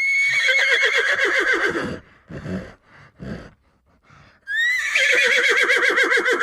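Horse whinnying twice: each neigh rises sharply, then quavers rapidly and slides down, lasting about two seconds. A few short sounds fall in the gap between the two calls.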